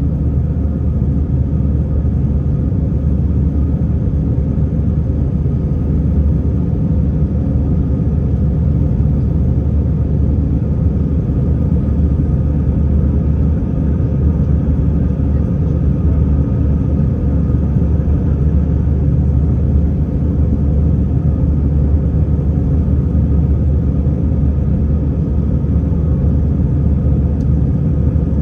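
Steady low rumble of an airliner's engines and airflow heard from inside the passenger cabin, loud and unchanging.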